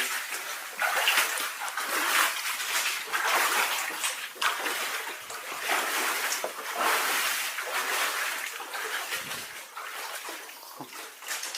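Water splashing and sloshing in a flooded mine tunnel, in repeated surges about once a second as the water is moved through, growing a little quieter near the end.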